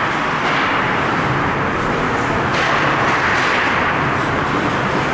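Steady arena noise at an ice hockey game: skates on the ice and the rink crowd blending into one continuous wash of sound.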